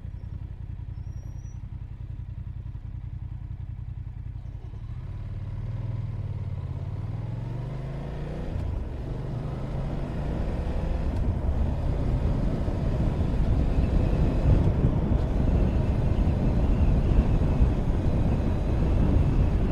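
Motorcycle engine idling, then pulling away: the engine pitch rises and drops several times as it goes up through the gears, and a louder rush of wind and road noise builds as the bike gains speed.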